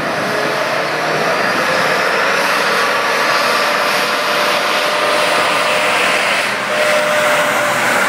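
1969 Ford Thunderbird's V8 engine running loud under a heavy rushing noise, its pitch rising slowly.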